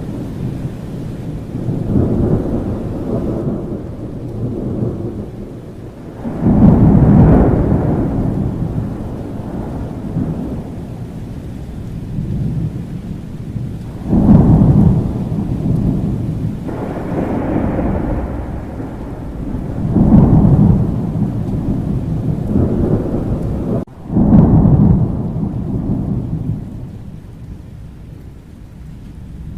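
Steady rain with rolling thunder: four loud peals that start suddenly, spaced several seconds apart, each rumbling away over a few seconds, with weaker rumbles in between.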